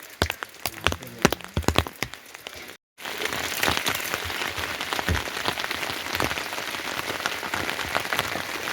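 A few sharp knocks in the first few seconds, then after a brief cut heavy rain pattering steadily on a surface.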